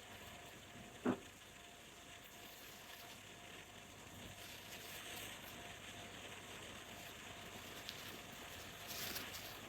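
Quiet handling of plastic toy pieces: one sharp click or knock about a second in, then faint rustling over a low hiss.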